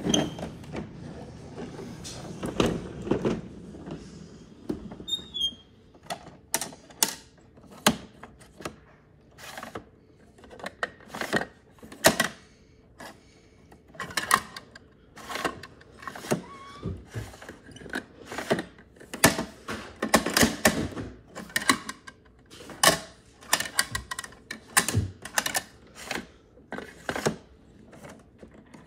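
Plastic toy garbage trucks being handled: irregular clicks, knocks and clatter of their moving parts, with some creaking and a low rumble in the first few seconds.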